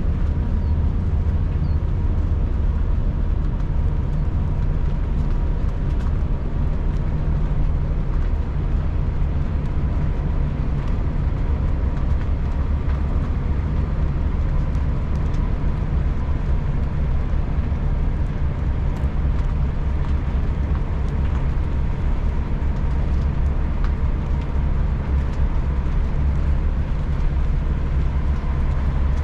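Semi truck driving at steady speed: a constant low engine and road rumble.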